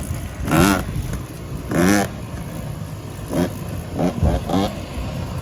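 Dirt-bike engine revving in several short blips, each rising and falling in pitch. The two strongest come about half a second and two seconds in.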